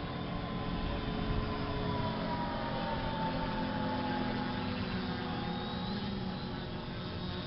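Multirotor drone's electric motors and propellers humming steadily in flight, with a tone that slides slowly lower through the middle.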